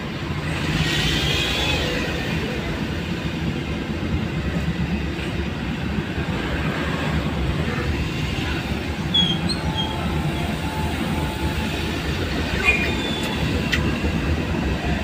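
Steady low rumble of a vehicle riding along a road, with a few short high squeaks and creaks about nine and thirteen seconds in.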